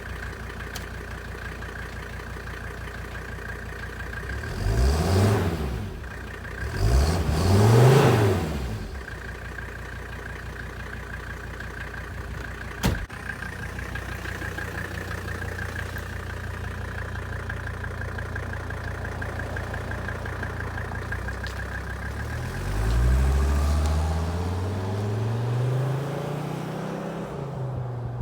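Mercedes-Benz 300D's five-cylinder turbodiesel, its straight-piped exhaust partly refitted, idling and revved twice, then pulling away with the pitch rising twice through a gear change. A single sharp click near the middle.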